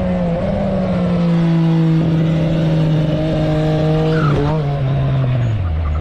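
Motorcycle engine running hard, its pitch falling slowly as the revs come down, with a brief ragged patch about four seconds in, then dropping steeply near the end as the bike slows.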